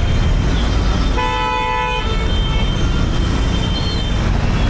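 A vehicle horn honks once in stopped road traffic, one steady tone lasting just under a second, starting about a second in, over the continuous low rumble of engines and traffic.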